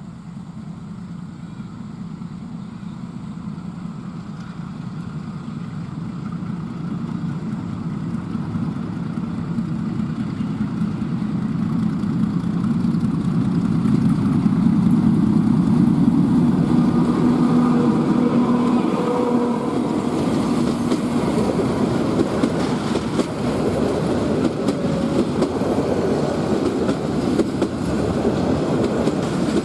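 A diesel-hauled passenger train approaches, its locomotive engine running and growing steadily louder over the first half. The noise then broadens into the rumble and rattle of coaches rolling past on the rails.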